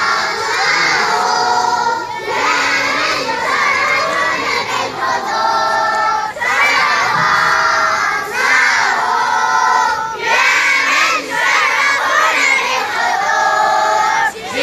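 A large group of children chanting together in unison, in loud phrases of about two seconds with short breaks between them.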